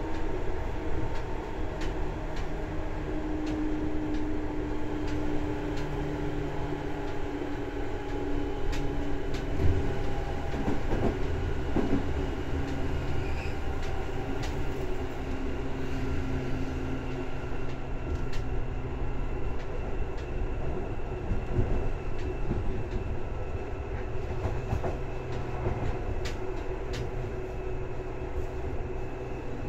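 Seibu 2000 series electric train running, heard inside the passenger car: a steady low hum from the motors and gears under the rolling noise. Sharp clicks come now and then from the wheels, with one louder knock about ten seconds in.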